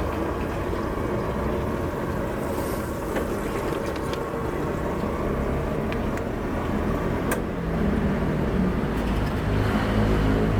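Steady low engine rumble of vehicles, with a few sharp clicks, swelling a little louder near the end.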